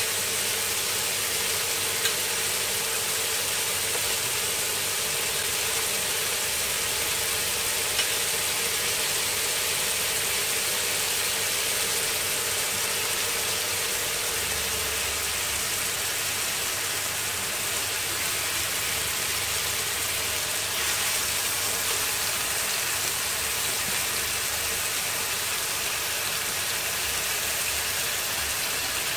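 Beef strips, chillies and vegetables sizzling steadily in a nonstick wok as they are stir-fried with a spatula, with a couple of light spatula taps.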